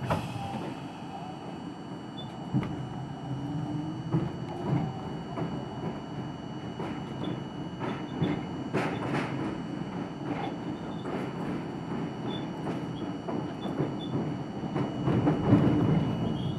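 R42 subway train running between stations: a steady running noise from the car, with irregular clicks and knocks from the wheels over rail joints, getting louder and busier near the end.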